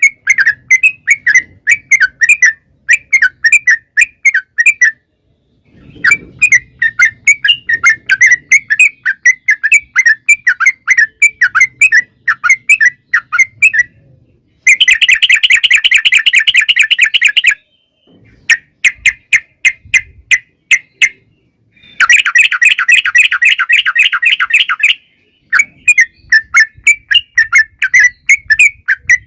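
Yellow-vented bulbul (trucukan) singing: phrases of bubbly, chattering notes with short pauses between them, and two long, rapid trills, one about 15 s in and another about 22 s in.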